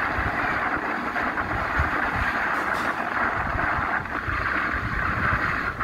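An oncoming train hauled by a WAP-7 electric locomotive passing close alongside at speed, heard from a moving train: a steady rush of wind and wheels on rail.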